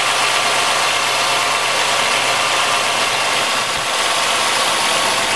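1997 Chevy Malibu's 3100 V6 idling soon after a cold start, with a light mechanical knock running through it. The owner calls the knock the so-called piston slap.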